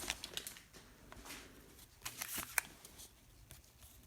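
Trading cards being handled: faint sliding and rustling with a few light clicks, and a short run of sharper clicks about two seconds in.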